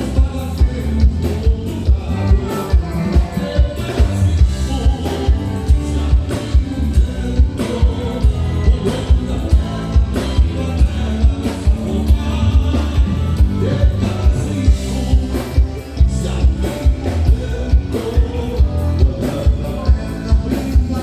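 Live band playing gaúcho regional music with a steady, driving beat of about two to three pulses a second.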